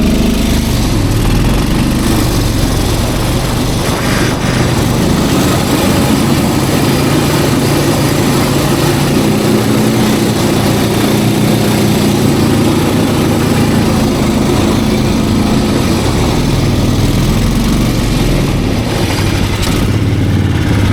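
Snowmobile engine running steadily as the machine drives and turns, its pitch rising and falling slightly.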